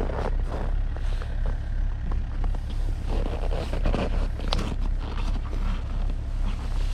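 Strong wind buffeting the microphone as a heavy, steady low rumble, with scattered knocks and rustles from the camera being handled.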